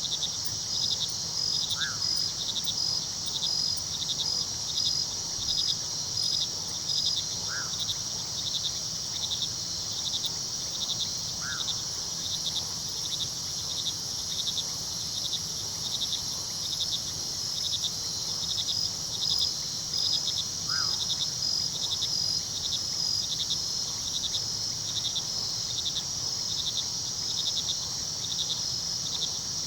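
Night chorus of crickets: a steady high trill with rhythmic chirping pulses several times a second, and four short, lower single calls scattered through it. A faint low rush of river water lies underneath.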